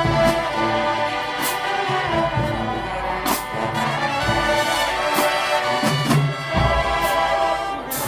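Marching band brass section playing sustained chords, with drum and cymbal hits punctuating the music every second or two.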